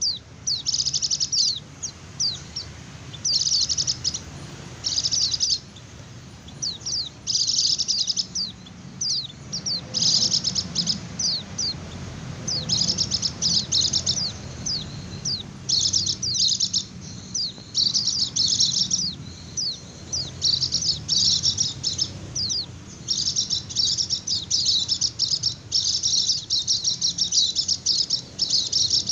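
White-eye (pleci) song: fast, high, continuous twittering trills in the 'ngecir' style. The trills come in bursts of about a second at first and run together almost without a break in the second half, over a faint low hum.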